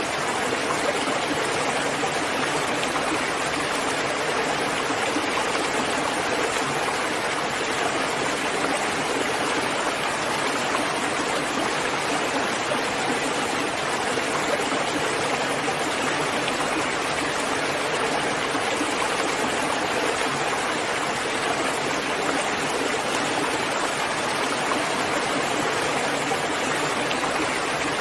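Steady rainfall: an even, unbroken rush of falling water with no single drops standing out.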